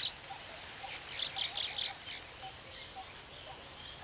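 Weaver birds chattering and chirping, with a cluster of chirps about a second in, over a faint short note repeating about twice a second.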